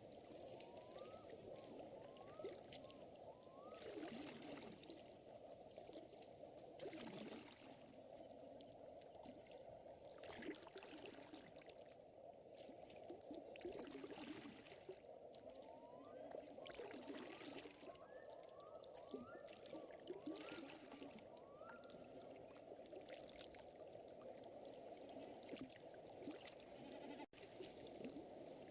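Faint lake water lapping and trickling in small swells every few seconds, with two runs of short rising chirps, one near the start and one about two thirds through.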